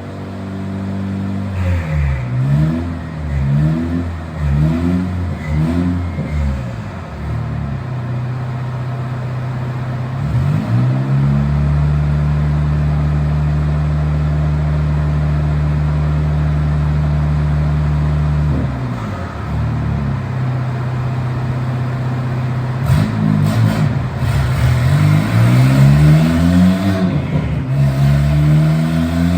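A Honda Civic's 1.5-litre turbocharged four-cylinder engine with an RV6 turbo, running on a dyno. It revs up and down several times, climbs and holds a steady speed for about seven seconds, drops, then climbs again in repeated rising pulls near the end.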